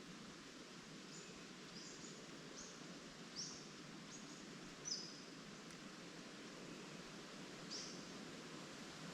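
Leaves rustling in a light breeze as a steady faint hiss, with a bird giving short high chirps every second or so, two of them louder about halfway through.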